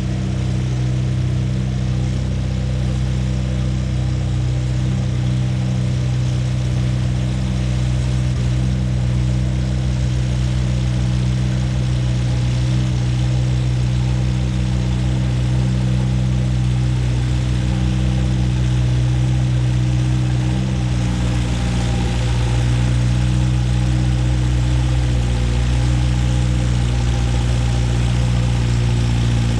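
Antique tractor engine running steadily at high load through a pull (hook) in the 3,500 lb class, its pitch holding nearly constant with a slight shift about 21 seconds in.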